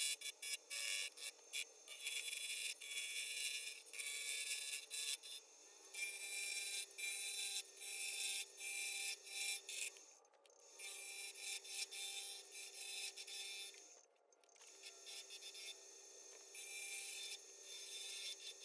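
Turning tool cutting a spinning bird's eye maple blank on a wood lathe in short, repeated passes with brief pauses, over a steady low hum: the end of the handle being turned down to size for a brass ferrule.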